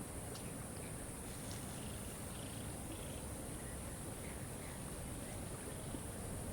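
Waterfall rushing steadily, with a few faint, short bird chirps over it.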